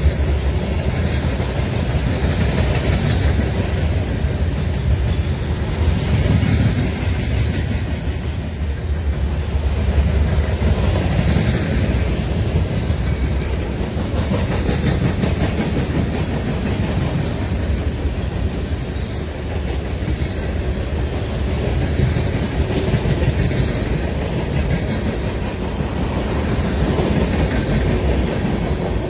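Freight train's cars, covered hoppers and tank cars, rolling past at speed: a steady low rumble with the wheels clicking over the rail joints.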